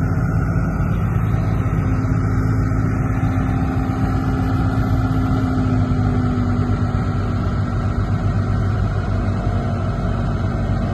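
Komatsu D58P bulldozer's diesel engine running steadily under load.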